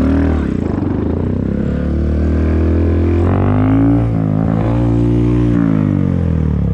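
Motorcycle engine running under way, its pitch rising from about two seconds in and falling off again towards the end, over a steady low rumble.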